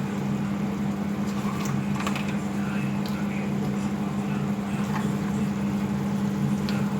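A steady low mechanical hum, with a few light clicks and scrapes of a utensil against the cooking pan.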